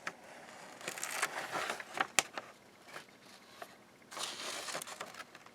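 Rustling handling noises in two spells, with a few sharp clicks, as things are picked up and moved about.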